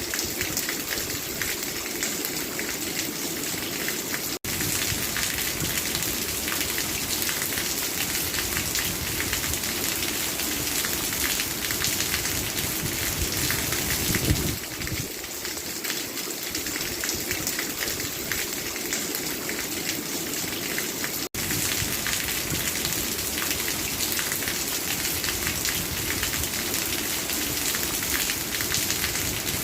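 Steady rainfall, an even hiss of rain falling and pattering on surfaces. It cuts out for an instant twice.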